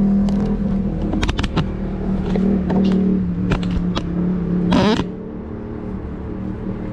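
Steady low mechanical hum, like an idling vehicle engine, with scattered clicks and rustles from rummaging through dumpster contents; a louder rasping rustle comes just before five seconds in, after which the hum carries on a little quieter.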